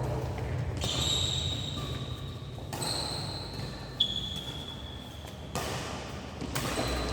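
Badminton play on an indoor court: rackets striking the shuttlecock about every one to one and a half seconds, with shoes squeaking sharply on the court floor between shots, in a reverberant hall.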